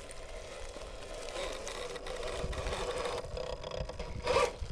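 RC rock crawler's electric motor and gearbox whining under load as the truck climbs a rock line, the whine growing louder partway through. A louder knock near the end.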